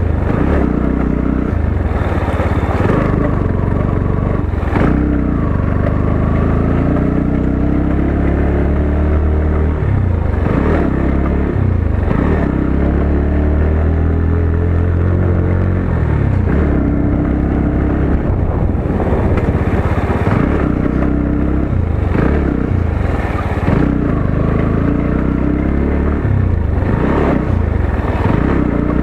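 Motorcycle engine running under constantly changing throttle, its pitch rising and falling again and again, with occasional knocks from the bike on a rough off-road track.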